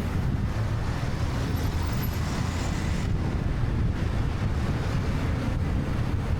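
Wind rumbling steadily on the microphone of a moving motorcycle, with engine and road traffic noise underneath.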